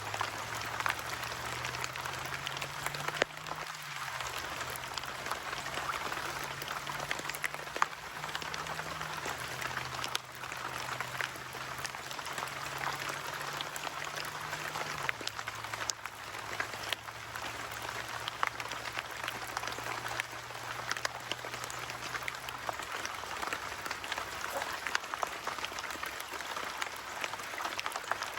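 Steady rain pattering: a dense crackle of many small drops with scattered louder ticks.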